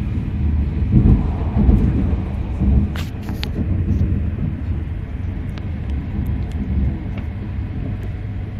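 Low rumble of an E6 series Shinkansen train running on its elevated track and picking up speed, heard from inside the passenger cabin. A few light clicks come about three seconds in.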